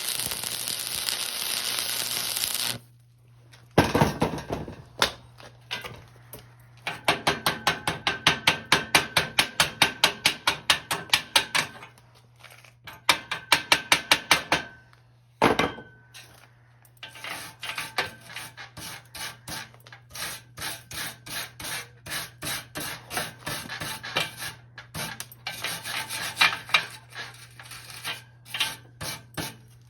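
Rapid back-and-forth rubbing strokes, about four a second, in runs of several seconds with short pauses between them. A steady hiss opens and cuts off after about three seconds. A low steady hum runs underneath.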